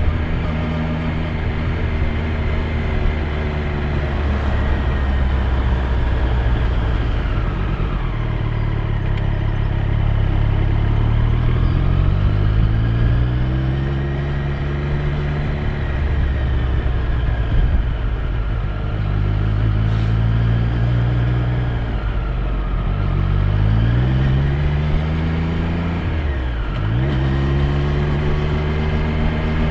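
Triumph Street Triple 765 R's three-cylinder engine under way, running steadily for stretches, with the revs climbing and falling several times. Near the end the pitch drops sharply and climbs again twice in quick succession.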